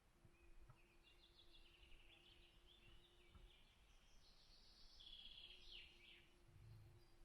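Faint songbird singing a run of quick chirps and trills, from about a second in until about six seconds, over a faint steady hum.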